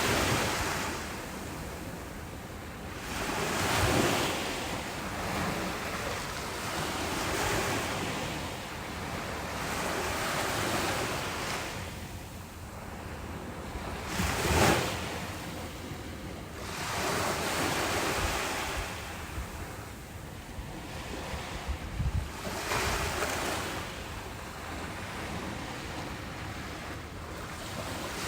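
Ocean waves breaking and washing onto a beach, surging every few seconds, with the sharpest break about halfway through. Wind buffets the microphone.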